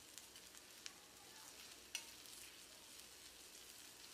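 Faint sizzling of mutton and gravy frying on a dosa tawa, with a spatula stirring through it and two light clicks against the pan about one and two seconds in.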